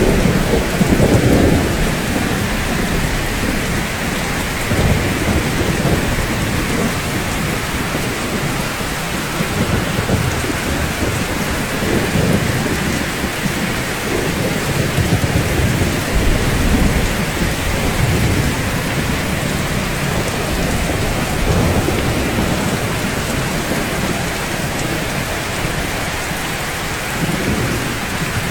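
Steady rain falling on rooftops, a dense, even hiss. Low rumbles swell and fade beneath it near the start and several times after.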